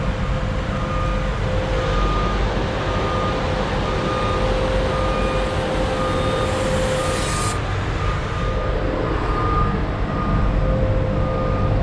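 Concrete mixer truck running with its drum turning slowly to bring the load up toward the discharge chute, a steady heavy rumble. A reversing-alarm-like beep repeats throughout, and a high hiss cuts off suddenly about seven seconds in.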